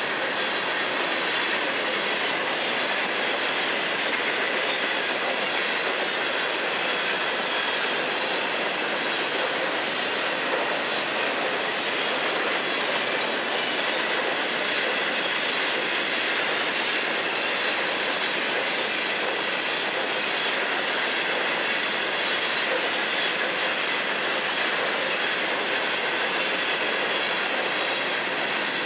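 Steel wheels of a long freight train's cars rolling past on the rails in a steady rumble and clatter, with a faint, steady high ringing over it.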